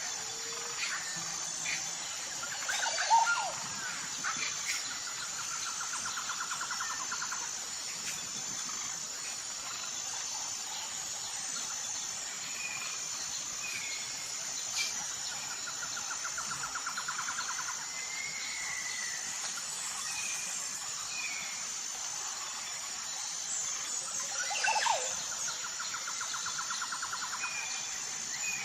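Tropical jungle ambience: a steady, pulsing high-pitched insect drone under birds calling, with short whistled notes and three rapid trills. Two loud squealing bird calls stand out, about three seconds in and again near the end.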